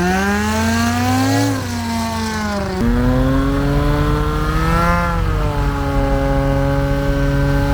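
Light aircraft engine and propeller revving. The pitch climbs and falls, shifts abruptly about three seconds in, climbs again and then holds at a steady high rpm.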